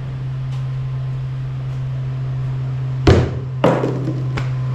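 A tossed object lands with a loud thunk about three seconds in and knocks twice more as it bounces, a missed throw, over a steady low hum.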